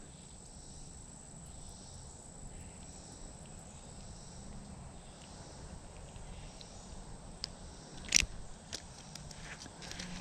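Faint steady insect chorus of crickets. About eight seconds in there is one sharp click, followed by a few lighter ticks.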